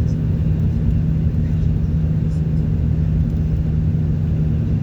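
A moving car's engine and road noise: a steady low drone with a constant hum.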